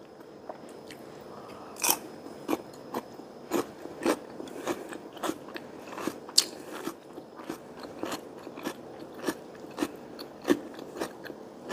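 Close-up crunchy chewing of a fresh cucumber slice: a string of irregular crisp crunches, about one or two a second.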